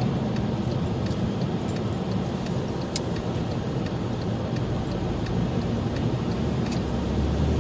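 A car driving along, with steady road and engine noise and a few light clicks and rattles, one sharper click about three seconds in.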